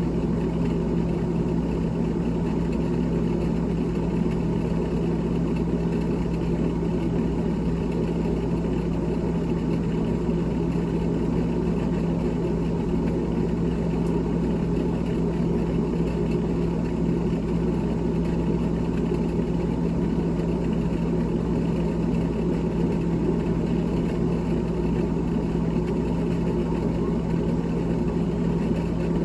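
GE GTH18XCTZRBB refrigerator running, a steady mechanical hum with one strong low tone that holds unchanged throughout.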